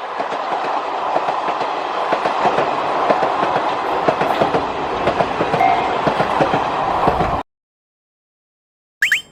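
Train passing, a dense clatter of wheels over the rails that starts abruptly and cuts off sharply after about seven seconds. Near the end, a short rising whistle-like sound effect.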